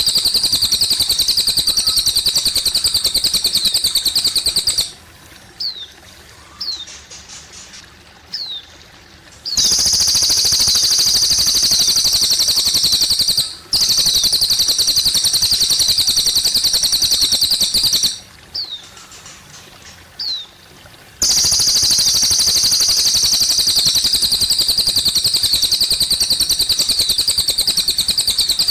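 Cililin bird singing long, loud, very fast high trills lasting several seconds each. They are separated by short pauses holding a few single downward-slurred chirps, over a faint, steady trickle of water.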